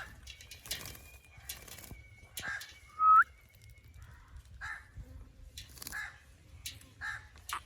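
Parrot squawking: a string of short harsh calls, the loudest a brief call that bends sharply upward about three seconds in.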